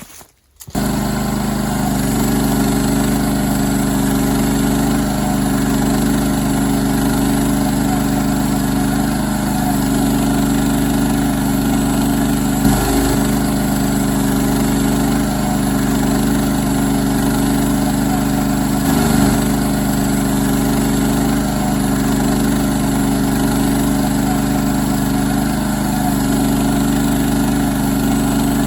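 Woodland Mills bandsaw sawmill's small gasoline engine running steadily at constant speed, with two brief dips in pitch partway through.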